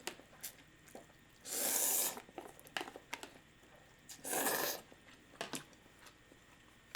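Close-up eating sounds: two short slurps of ramen noodles about three seconds apart, with small wet chewing clicks between them.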